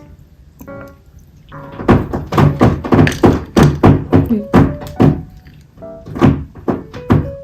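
A run of dull, heavy thuds, two or three a second, starting about two seconds in and stopping near the end, over soft piano background music.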